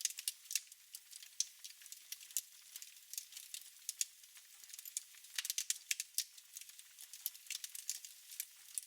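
Fire burning in a fireplace, crackling: irregular sharp pops and snaps over a soft hiss, with a quick flurry of crackles about five seconds in.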